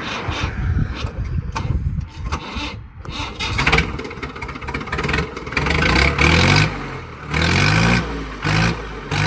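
Tractor engine exhausting through a homemade steel silencer, running unevenly and then revved up about four times, the pitch climbing with each rev and dropping back.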